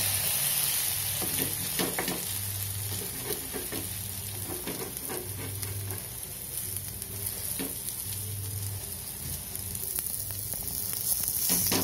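Egg paratha frying face-down on a hot iron tawa, the egg side just flipped onto the griddle: a steady sizzle. A few short scrapes and taps come from a slotted spatula pressing it, about a second in, near the middle and near the end.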